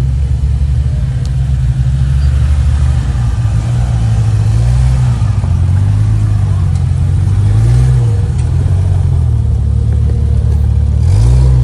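Motor vehicle engine running under way, its pitch rising and falling with the throttle about eight seconds in and again near the end.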